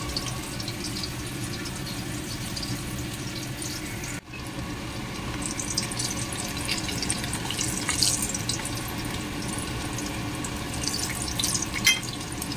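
Cornstarch-coated pork chop frying in shallow hot oil: a steady sizzle with scattered crackles and pops. It drops out briefly about four seconds in, and there is a sharp click near the end.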